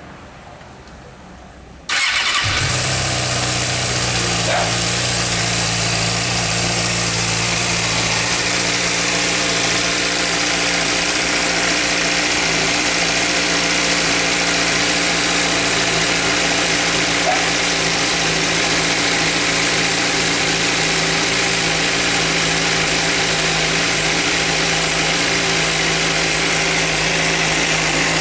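Suzuki GSR600's inline-four engine starting about two seconds in, then idling steadily. The ticking in its idle is one the owner suspects comes from the cam chain tensioner or valves needing shim adjustment, or may be normal for the Suzuki.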